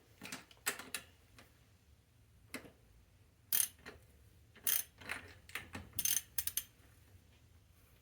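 Hand ratchet wrench being worked on a bike bolt, clicking in short irregular bursts with pauses between.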